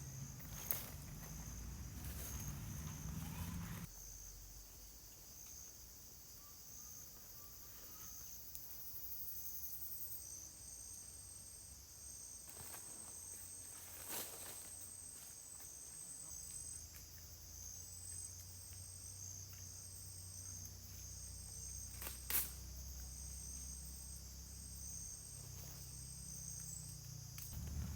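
Insects shrilling steadily in high pitch, with a regular pulsing chirp joining in from about ten seconds in, over a low rumble. A few sharp knocks stand out, the loudest about twenty-two seconds in.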